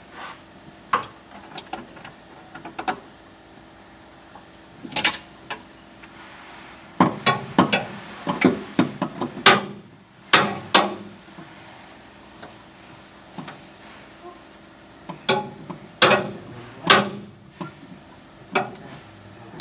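Hand tools clinking and knocking against metal parts in irregular sharp strikes, with a quick cluster about seven to eleven seconds in and another around fifteen to seventeen seconds.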